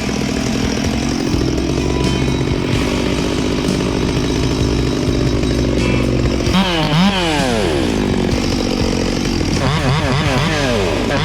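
Chainsaw cutting birch limbs, running steadily under load for about six seconds, then revving up and down between cuts for the rest of the time.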